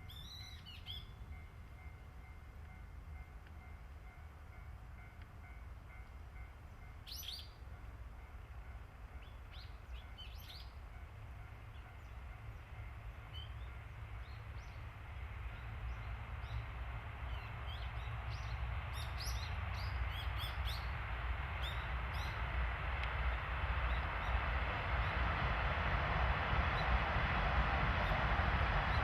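Small birds chirping now and then over a low rumble that grows steadily louder through the second half: a JNR DE10 diesel locomotive with oil tank cars approaching.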